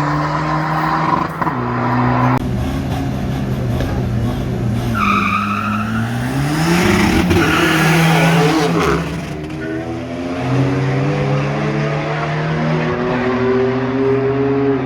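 Car engine held at high, steady revs while the tyres spin and squeal in a burnout; about five seconds in the revs dip and climb again before settling back to a steady held note.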